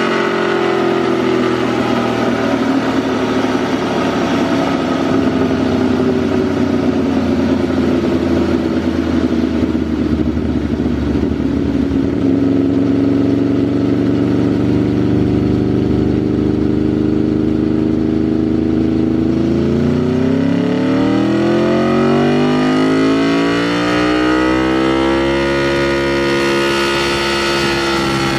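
2010 Aprilia RSV4 Factory's V4 engine running on a dyno through a Racefit slip-on exhaust. It holds steady revs that sag slowly, then revs up smoothly over several seconds about two-thirds of the way through and holds steady at the higher revs.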